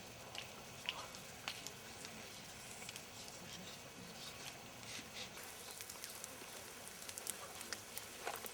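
Campfire crackling: irregular sharp pops and snaps over a soft hiss.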